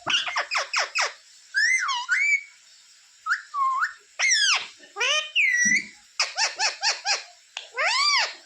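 Pet parrot giving shrill, whistled calls that sweep up and down in pitch, some as quick runs of five or six short notes and others as single longer swooping calls, with short pauses between.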